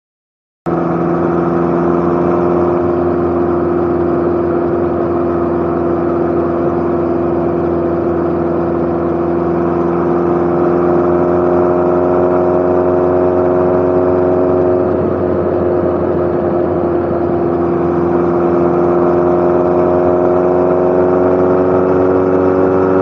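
Motorcycle engine running at a steady cruising speed while riding, its pitch rising a little about halfway through and then holding. It cuts in abruptly just after the start.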